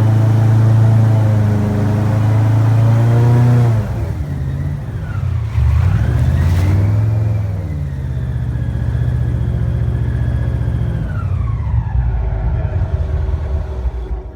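Airboat engine and propeller running at high speed, then throttled back about four seconds in, revved up briefly again, and eased off further near the end as the boat slows.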